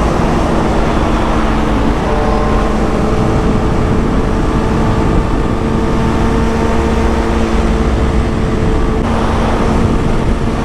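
Motorcycle engine, the rider's Kawasaki Ninja ZX-6R, running at a steady cruise with wind rushing over the microphone. Its note steps to a new steady pitch about two seconds in.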